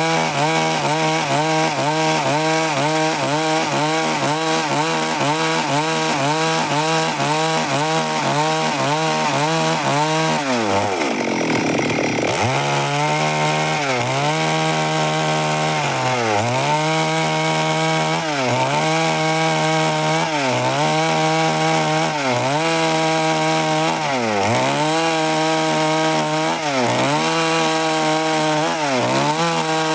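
Stihl MS 382 two-stroke chainsaw cutting through timber at high revs. Its pitch dips again and again as the chain bogs in the cut. About eleven seconds in the engine falls away toward idle for a second or two, then revs back up and cuts on.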